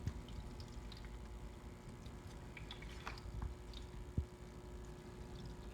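Water dripping and trickling out of the bottom of a GE Cafe refrigerator's door while its built-in Keurig hot-water dispenser runs: a fault that leaks the dispensed water instead of delivering it. Faint scattered drips over a steady low hum, with one short low thump about four seconds in.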